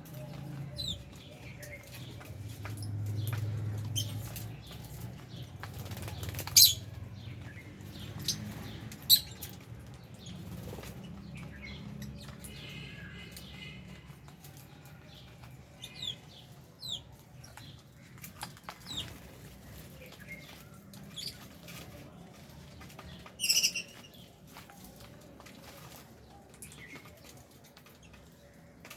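Aviary lovebirds and budgies: wings fluttering among scattered short chirps and clicks, with a few sharp louder calls, the loudest a little after 23 seconds in.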